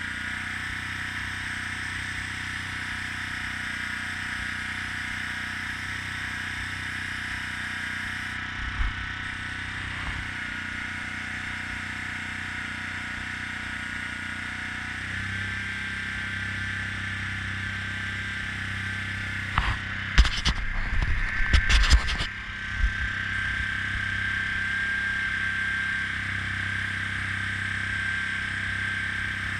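Airbrush spraying with a steady hiss over a low, steady hum. A quick run of clicks and knocks comes about two-thirds of the way through.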